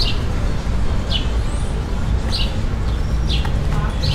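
A small bird chirping repeatedly: short, downward-sliding chirps about once a second, over a steady low outdoor rumble.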